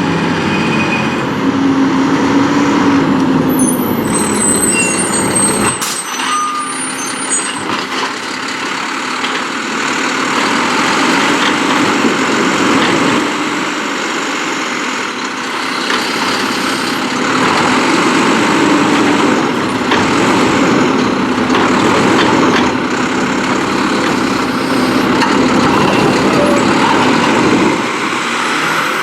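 Mack LR automated side-loader garbage truck with a Heil Durapack Rapid Rail body working at close range: engine and hydraulics running, with loud hissing that swells and eases in waves. The deep rumble drops out suddenly about six seconds in.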